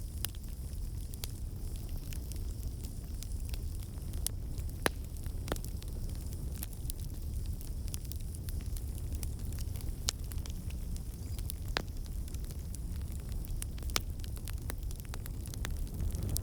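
Wood fire burning in a fireplace: a steady low rumble of flames with scattered sharp crackles and pops, a few louder pops standing out now and then.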